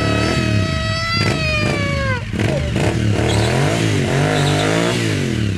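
2003 Suzuki SV1000S V-twin engine revving up and down repeatedly during a burnout, spinning the rear tyre. A high steady tone sounds over it for the first two seconds, then falls in pitch and stops.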